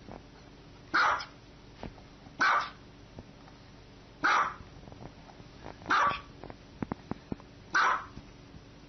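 A small dog barking five times, each a short, high, sharp bark, spaced a second and a half or so apart.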